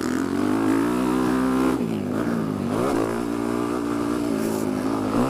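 Dirt bike engine running under throttle, heard from a microphone inside the rider's helmet; the revs drop about two seconds in and again about three seconds in, then climb back.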